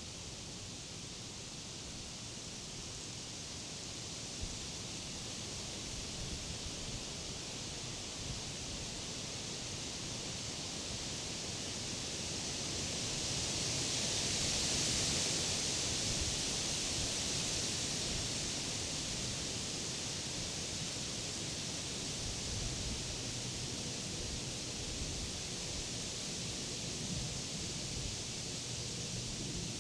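Wind rustling through the leaves of summer trees, a steady hiss that swells in a gust about halfway through and then eases off.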